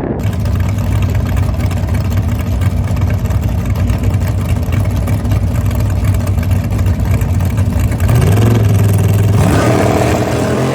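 Drag car engine running at a steady pitch, then rising in pitch and getting louder about eight seconds in as it revs up.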